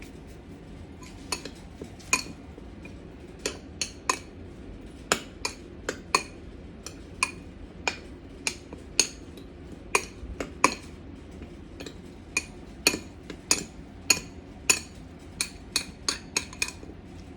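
A metal kitchen utensil knocking against a hard dish, in sharp clinks with a short ring, irregular at about one or two a second and coming faster near the end.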